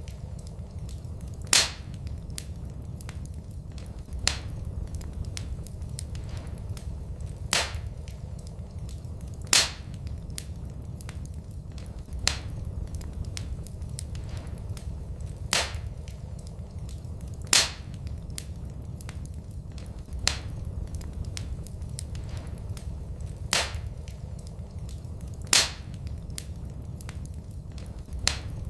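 Wood fire in a fireplace crackling, with sharp single pops every two to three seconds over a steady low rumble.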